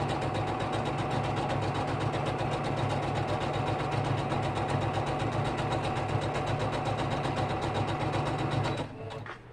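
Electric sewing machine running steadily, stitching at a fast even rate, then stopping near the end.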